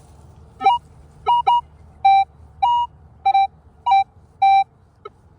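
Metal detector giving its target tone as the coil is swept over the hole: about eight short beeps at two slightly different pitches, roughly one every 0.6 seconds. The repeated response means the target is still in the hole.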